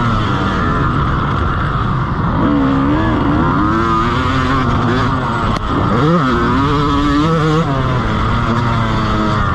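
Motocross dirt bike engine heard close up from a camera mounted on the bike, its revs rising and falling as it is ridden around the track. The revs drop sharply about five and a half seconds in, then climb straight back up.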